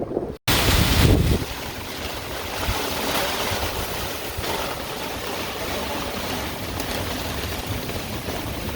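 A squall hitting a moored sailboat: steady hiss of wind-driven rain and wind. A low rumble of wind buffeting the microphone for the first second or so.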